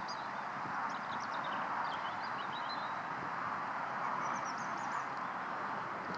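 Thin, high bird chirps and twittering at intervals over a steady outdoor background noise.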